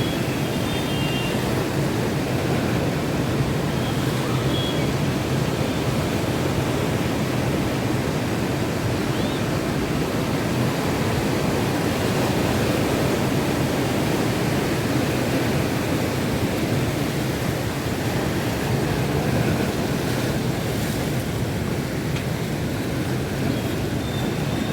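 Monsoon sea surf and wind in a steady, unbroken rush, with no single wave standing out.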